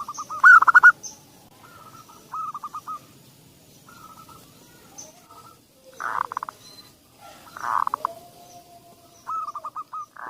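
Zebra dove (perkutut) cooing: about six phrases of quick staccato coo notes, each phrase a second or less, repeated with short pauses between them.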